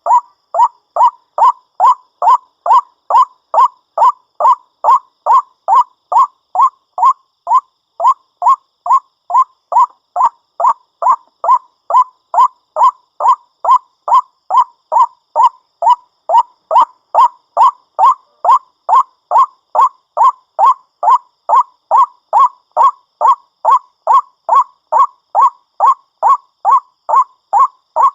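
White-breasted waterhen (ruak-ruak) calling in an even, unbroken series of short harsh notes, about two a second. It is a repeating call track of the kind played to lure waterhens.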